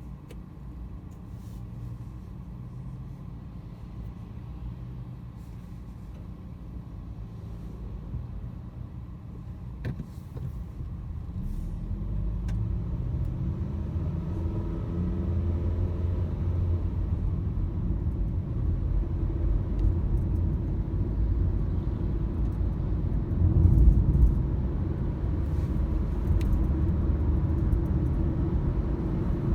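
A car driving, its engine and road rumble growing louder about a third of the way in as it speeds up, with a brief louder surge near the end. A few faint ticks are heard.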